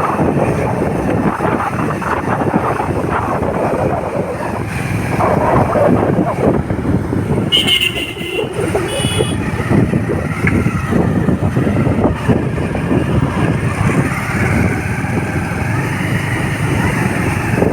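Wind buffeting the microphone over steady vehicle and road noise while riding. About halfway through come two short high-pitched beeps, roughly a second apart.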